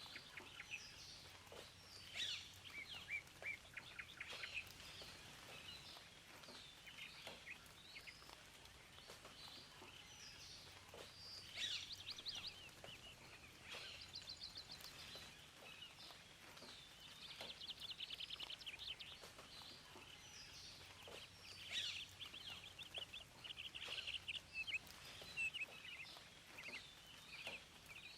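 Several wild birds singing, a mix of short chirps and rapid trills that come and go throughout, over a faint steady hiss.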